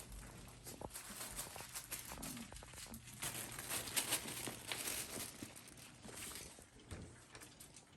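Goldendoodle puppies moving about and eating: a steady run of irregular crinkling, small clicks and scuffling, with no voices.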